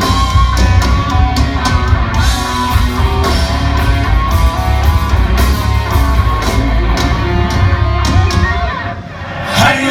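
Heavy metal band playing live: distorted electric guitars over bass and drums in an instrumental passage. The heavy low end drops out near the end.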